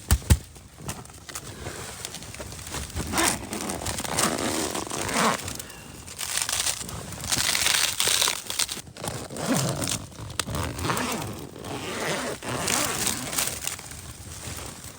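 Stiff, frozen tent fabric crinkling and rustling as it is handled, in uneven bursts, with a few sharp clicks at the start.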